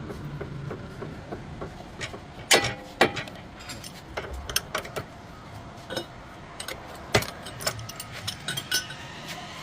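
Irregular sharp metallic clicks and knocks of hand tools working on car steering parts, with a few louder knocks about two and a half, three and seven seconds in.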